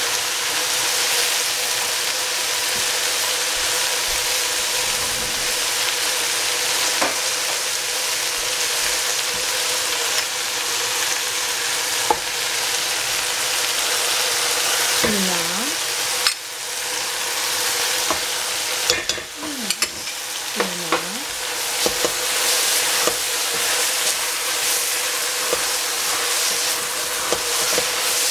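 Baby cabbage and minced pork frying in a stainless steel pot, a steady sizzling hiss as the juice cooks out of the leaves. There are occasional clicks and knocks, a few short swooping sounds around the middle, and a wooden spatula stirring near the end.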